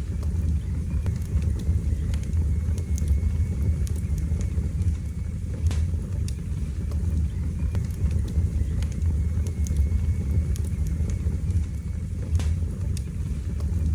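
Wood fire burning in a fireplace: a steady low rumble with sparse, scattered crackles and pops, one louder pop about six seconds in.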